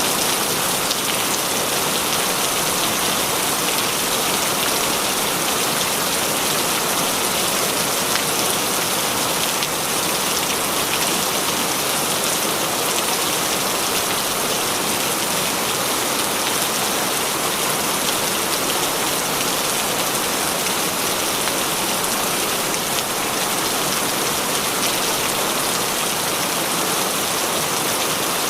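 Heavy rain falling steadily, a dense, even hiss of drops without let-up.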